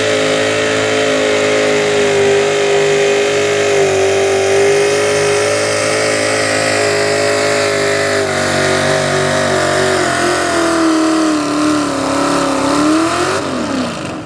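Two-wheel-drive super stock pulling truck's engine at full throttle under load on the sled. The pitch holds steady for about ten seconds, sinks as the engine is pulled down, then climbs briefly and cuts off near the end as the throttle is let off.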